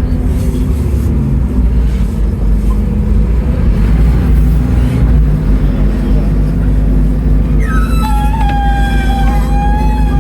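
Scania N310UA articulated bus with ZF Ecomat automatic gearbox under way, its diesel engine and driveline giving a steady low hum, with a whine falling in pitch at the start. A steady high tone with overtones comes in near the end.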